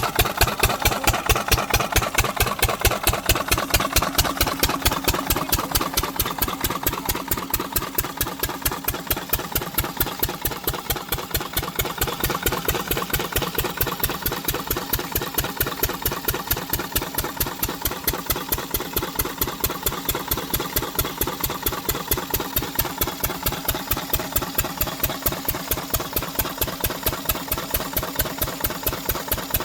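12 hp diesel engine of an irrigation water pump set running steadily, with a regular thudding beat of about five pulses a second.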